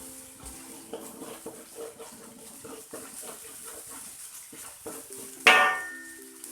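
Spatula scraping and stirring ground spice paste as it fries in a wok, with light sizzling and irregular small clicks. A single sudden loud sound comes about five and a half seconds in and fades within half a second.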